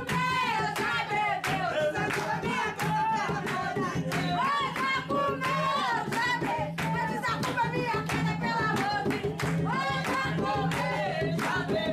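Jongo: a singing voice over steady hand-drum strikes, about three beats a second, with handclaps.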